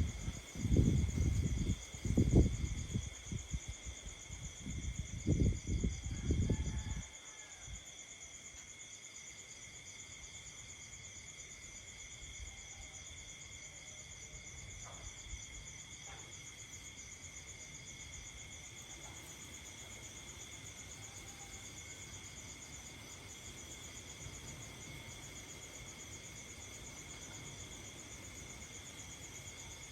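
Night insects chorusing steadily in several high, even bands. A run of loud, low rumbling bursts covers the first seven seconds, then only the steady insect chorus remains.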